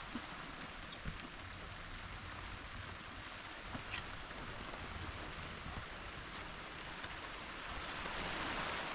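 Steady rain falling: an even hiss with a few light drip-like ticks, getting a little louder near the end.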